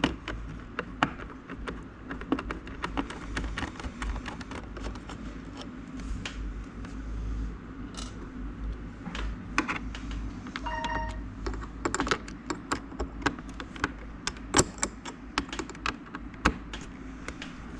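Scattered clicks and taps of a screwdriver and hands on the plastic housing and power supply of a mini fridge as it is taken apart, with a brief ringing tone about eleven seconds in.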